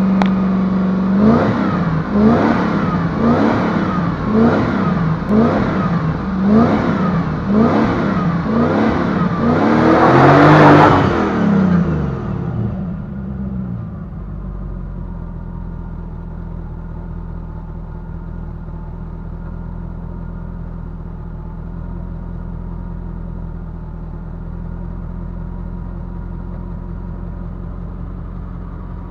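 Audi Coupe's V8 engine revved in a quick series of short blips, about ten in the first ten seconds, then one longer, higher rev. It then falls back to a steady idle for the rest.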